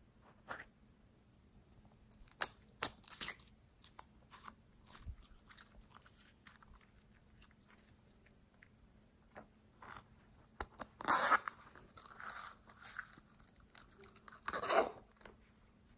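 Slime being worked, giving irregular crunchy crackles and pops in short clusters. The loudest clusters come a few seconds in and again in the last few seconds.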